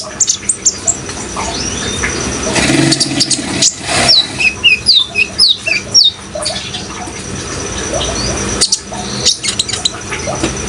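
Kolibri ninja sunbird singing: a run of short, sharp, high chirps that fall in pitch, over the steady rush of running water.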